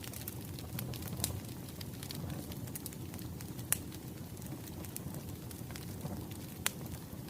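Wood fire crackling: a steady low rumble of burning logs with irregular sharp pops and snaps, three louder pops about a second, three and a half seconds and six and a half seconds in.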